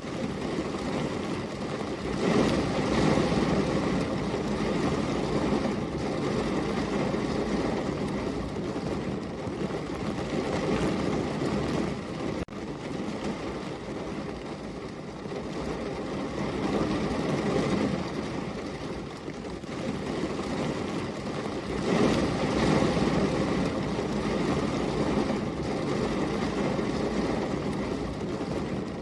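Heavy rain falling in a steady, dense hiss that swells louder about two seconds in and again about twenty-two seconds in.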